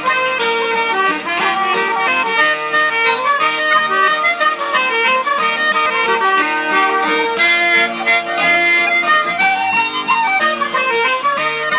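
Traditional Irish band playing a waltz instrumentally, fiddle with button accordion and guitar accompaniment, steady and unbroken.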